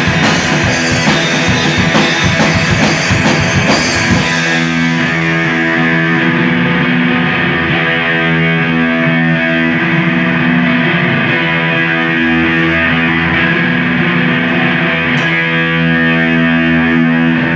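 Live rock band: drums and electric guitars play for about the first four seconds, then the drums stop and the guitars and bass hold a long ringing chord that cuts off sharply at the very end, closing the song.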